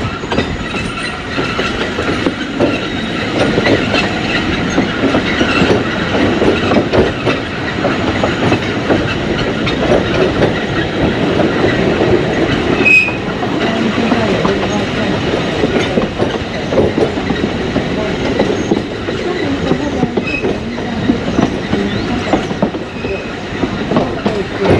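Alishan Forest Railway train running, heard from inside the carriage: a steady rumble with the wheels clattering over the rails. A brief high squeal comes about halfway through.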